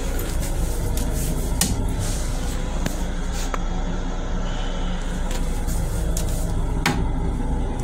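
Steady low rumble of a Long Island Rail Road M7 electric railcar heard from inside its small onboard restroom, with a few sharp clicks and rattles.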